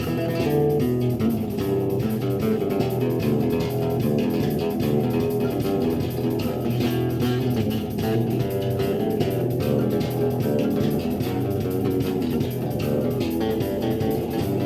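Electric bass guitar played in an improvised jam: a steady, unbroken run of quick plucked notes.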